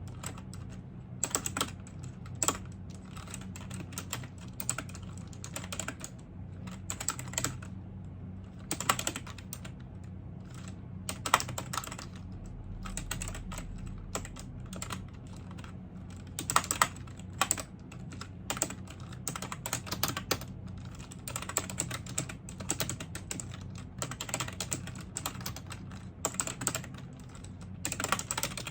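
Typing on a computer keyboard: bursts of key clicks in irregular runs with short pauses between them, over a steady low hum.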